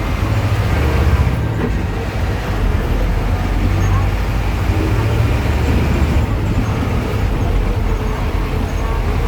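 Diesel engine of a VW 17-230 OD city bus running, a steady low rumble with road and cabin noise around it.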